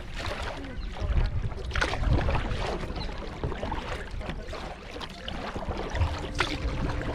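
Kayak paddle strokes dipping and swishing through the river water, with wind buffeting the microphone.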